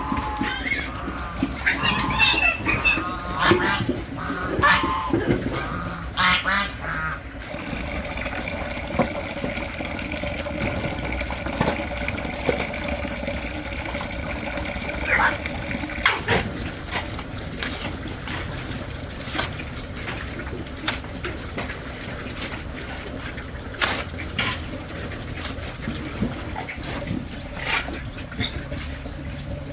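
Domestic waterfowl calling in quick, wavering quacks and honks for the first several seconds. After that a steady, multi-toned hum runs under scattered clicks and knocks.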